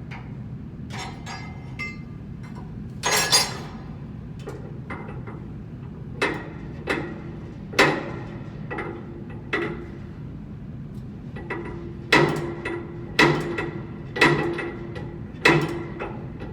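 Hammer striking metal in about a dozen irregular blows, the heavier ones leaving a brief metallic ring, as in knocking a bearing or shaft during a blower bearing replacement.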